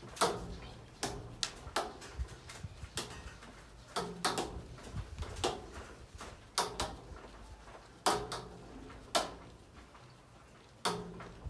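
A threaded pipe-to-tank connector wrapped in plumber's tape being screwed into a tank fitting by hand, making irregular sharp clicks and knocks roughly once a second.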